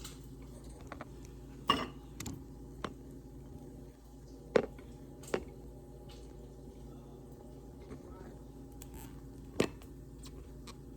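Scattered knocks and clinks of dishes and utensils being handled during kitchen work, about half a dozen separate hits over a low steady hum.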